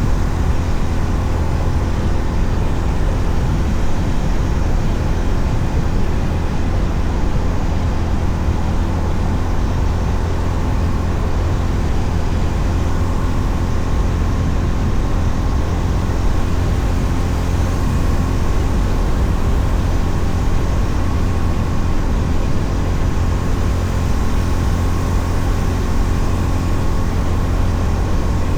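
Steady riding noise from a Honda CB350RS's single-cylinder engine at an even cruising speed, with wind rushing over the microphone. Loud and unchanging, with a heavy low rumble.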